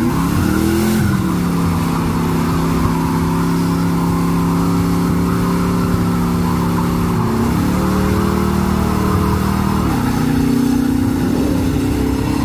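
V8 car engine held at high, steady revs, as in a burnout. The pitch drops about a second in, then steps up around seven and a half seconds and again around ten seconds.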